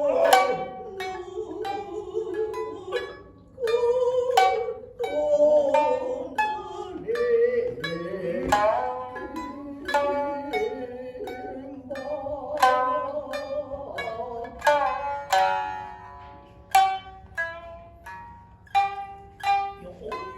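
Shinnai-bushi shamisen, the main shamisen with the higher uwajōshi, struck with a plectrum in a steady run of sharp, ringing notes. Beneath them runs a long, wavering chanted vocal line.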